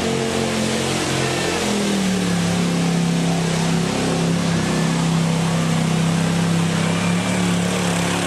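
Mud-bog truck engine at high revs, its pitch stepping up about a second and a half in and then held steady and loud at full throttle through the pit.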